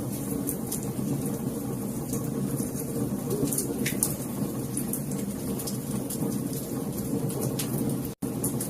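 Wood fire in a fireplace crackling, with scattered sharp pops over a steady low rumble of flames. The sound cuts out for an instant near the end.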